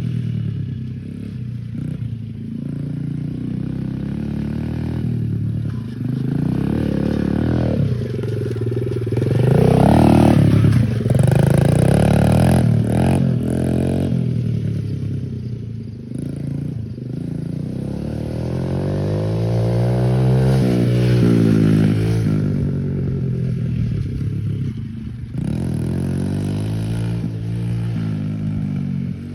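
Pit bike engine revving up and down as it is ridden, its pitch rising and falling again and again, loudest about a third of the way in, with a few sharp knocks near the middle.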